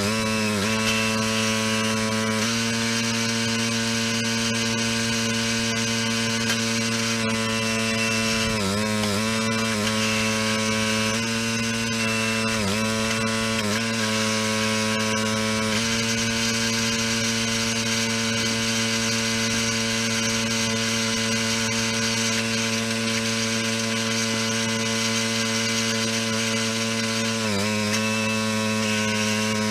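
Small gasoline engine of a log splitter running steadily, its pitch dipping briefly three times.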